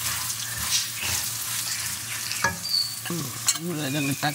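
Crushed spices, coconut pieces and aromatics sizzling in hot oil in a stainless steel pan. A silicone spatula stirs them, scraping lightly on the pan.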